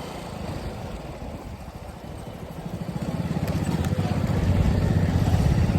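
Motorcycle engine running with a quick low pulse, quieter at first and then growing steadily louder from about halfway through.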